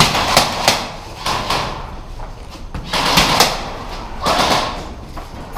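Irregular knocks, scuffs and clatter of players and their gear moving through a hard-walled room, a few sharp hits every second.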